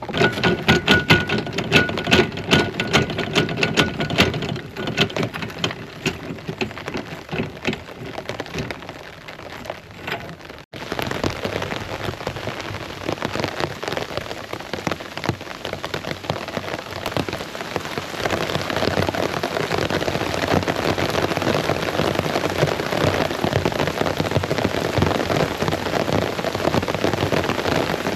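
Heavy rain. For the first ten seconds or so, big drops patter loudly and distinctly on a surface close by. After a sudden cut, a steady, even downpour follows.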